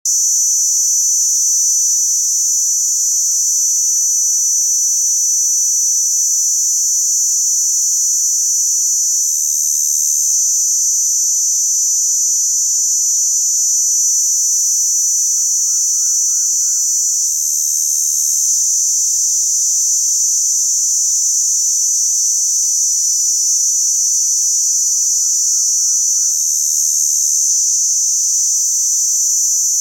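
Two crickets singing together: a steady, unbroken high trill, joined about every eight seconds by a briefly stronger, even higher-pitched song. Faint rising chirps sound lower down now and then.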